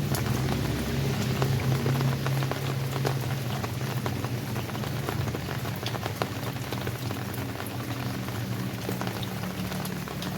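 Steady rain, with many separate drops ticking and pattering on surfaces. A low rumble lies underneath and eases after the first few seconds.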